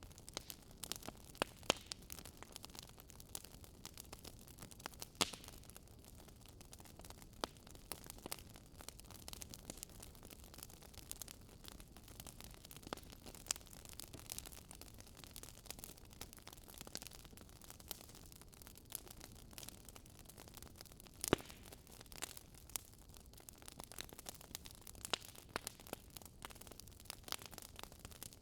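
Wood fire crackling: a faint steady hiss with irregular sharp pops and snaps, one louder pop about two-thirds of the way through.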